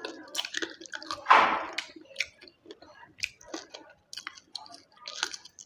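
Close-up chewing and wet mouth smacking from someone eating a meal of curry, rice and puri, with many short clicks and one louder burst about a second and a half in.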